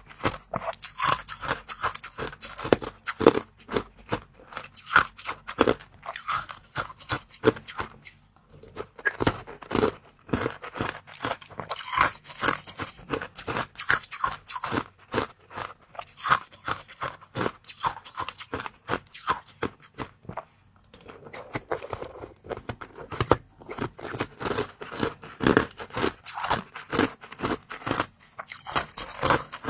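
Close-up crunchy bites and chewing: runs of crackling, cracking crunches with sharper bursts every few seconds, and brief lulls about eight seconds in and again around twenty seconds.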